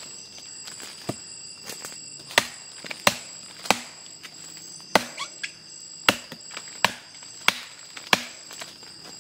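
Repeated sharp knocks, roughly one every two-thirds of a second, over a steady high-pitched drone of forest insects.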